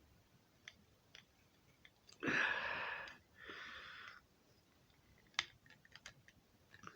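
Light clicks and taps of plastic model parts being handled as a tail fin is worked into its slot, with two breaths about two and three and a half seconds in, the first the louder.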